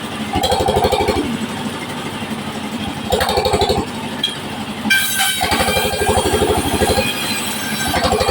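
A powered wood saw runs steadily while it cuts waru wood. It grows louder during each pass, with a cut every couple of seconds.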